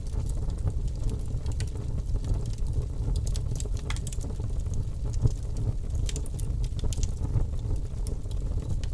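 Wood fire crackling in a fireplace: scattered sharp snaps and pops over a steady low rumble from the burning fire.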